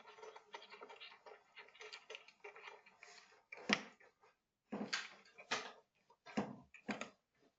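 Kitten chewing and crunching dry kibble: a dense run of small crackling crunches for about three seconds, then several separate, louder crunches.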